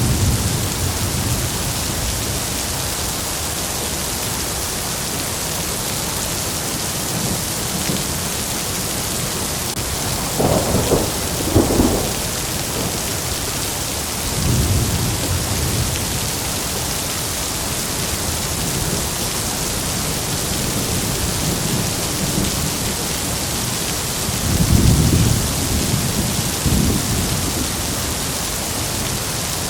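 Heavy rain falling steadily, with thunder through it: a rumble at the start, two sharper claps about ten to twelve seconds in, a low rumble around fifteen seconds, and the loudest rumbles near twenty-five seconds.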